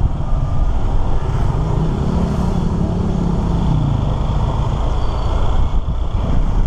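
Motorcycle engine running while riding, over steady road and wind noise; the engine note rises and then falls back between about two and four seconds in.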